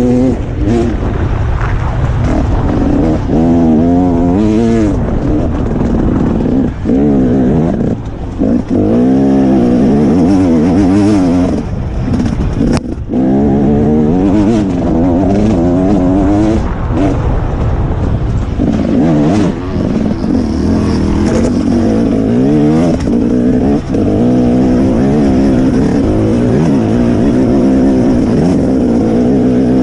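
Dirt bike engines revving hard and backing off again and again as the bikes are ridden, with the pitch rising and falling every second or so. There are a few abrupt jumps where one clip cuts to the next.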